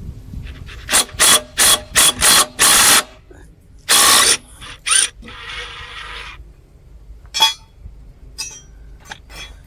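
Socket ratchet clicking in short bursts as a 5/8-inch socket works the blade bolt on a tipped-back walk-behind mower, followed by quieter clicks and handling of the tool.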